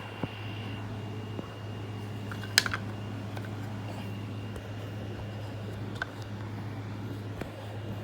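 Motorised toy train running along its track: a steady motor hum with a thin high whine, broken by a sharp cluster of clicks about two and a half seconds in and single clicks later on.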